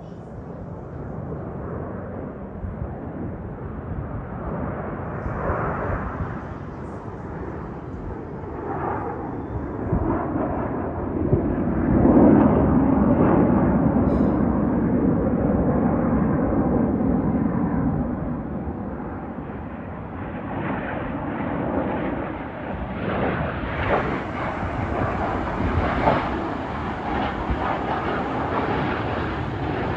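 Aermacchi MB-339 aerobatic jets passing overhead, their turbojet noise swelling to its loudest about twelve seconds in, then easing off. It builds again with another pass in the last third.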